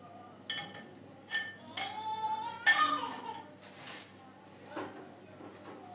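Hard kitchenware items clinking and knocking as they are handled and set down: a string of separate sharp clinks, the loudest about halfway through.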